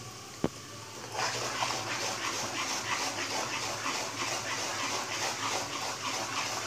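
Semolina frying in ghee in a pan, sizzling and crackling as a spatula stirs it, at the stage where it has just begun to roast. The sizzle rises sharply about a second in, just after a single sharp tap.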